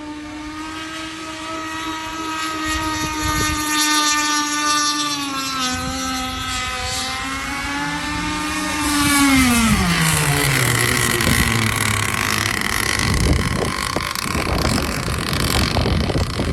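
An RC boat's 35cc two-stroke gas engine runs at a high, steady pitch, then its pitch falls steeply about nine seconds in. After that comes a louder, noisier rushing sound with low irregular thumps.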